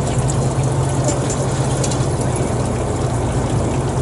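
An engine running steadily: a constant low hum under a rushing noise.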